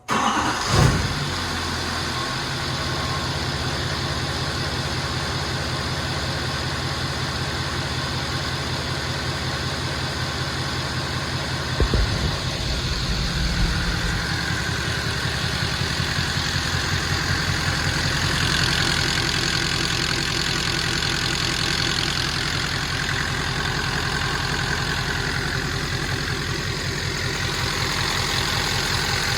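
GM Duramax LML 6.6-litre V8 turbodiesel idling steadily with the tick the owner is recording. A couple of brief louder knocks come about a second in and about twelve seconds in, and the engine note shifts just after the second one.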